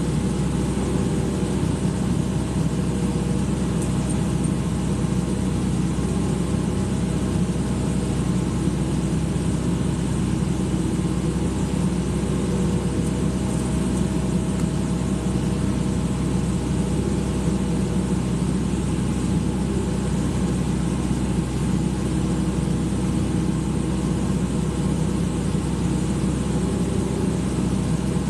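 Excavator's diesel engine running steadily at an even pace, with no rise or fall in pitch.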